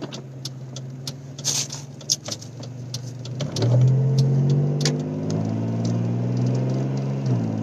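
Car engine running in the cabin, a steady low hum that grows louder and climbs slowly in pitch from about halfway through, then drops back near the end, with scattered small clicks and knocks of handling.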